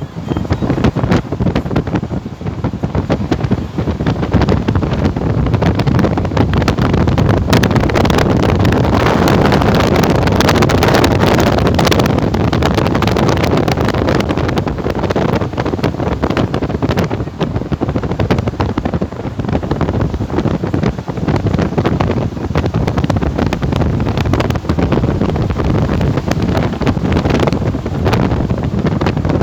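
Strong wind blowing across the microphone: a loud, steady rush with constant buffeting, at its strongest about ten seconds in.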